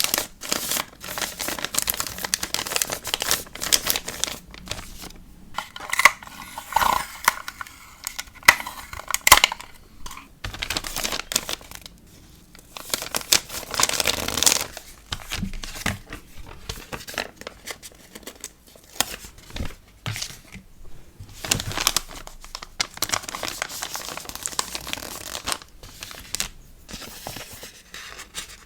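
Packaging materials being handled for a sticker order: plastic and paper crinkling and rustling in quick, irregular bursts, with tearing sounds, and a brief squeaky stretch about a quarter of the way in.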